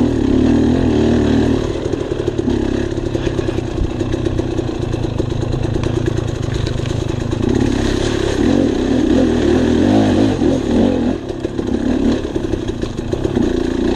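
Dirt bike engine running, its throttle rising and falling as it climbs a steep trail, with clatter from the bike over rough ground.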